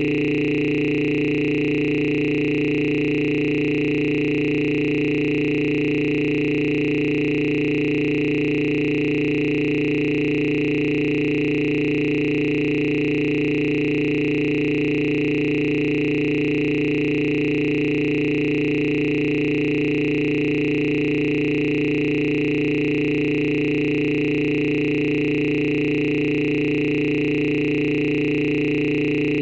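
A steady electronic tone, several pitches held together without change, like a synthesizer drone.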